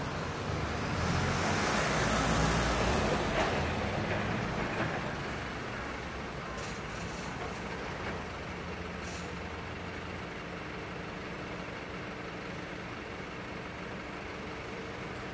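City street traffic: a vehicle passes close by during the first few seconds, its engine rumble and road noise swelling and fading, with a brief high squeal about four seconds in. Then a steady, quieter hum of traffic.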